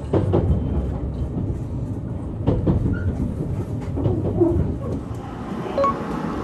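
JR Kyushu 787-series electric train '36+3' rolling into a station: a steady low rumble, with the wheels clacking over rail joints and points in pairs, near the start and again about two and a half seconds in.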